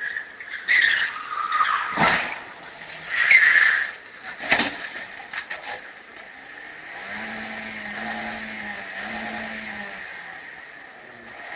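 Vehicle tyres squealing, with two sharp knocks in the first half, then a vehicle engine running steadily.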